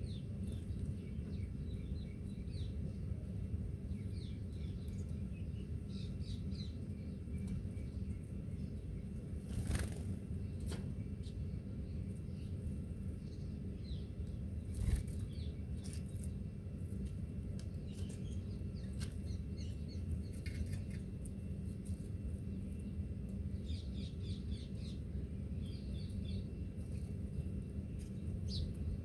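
Small birds giving short, scattered high chirps over a steady low rumble, with two brief sharp knocks, about ten and fifteen seconds in.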